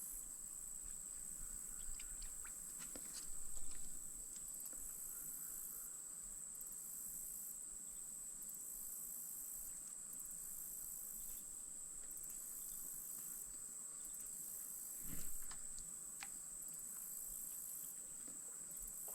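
Steady high-pitched insect chorus on one held note, with a pulsing shimmer above it. Two soft knocks stand out, about three and a half seconds in and again about fifteen seconds in.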